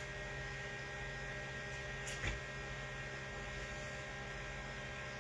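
Steady electrical mains hum, with one brief faint tap about two seconds in.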